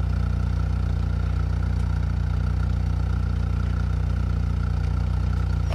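Car engine idling steadily, a constant low hum with no change in pitch.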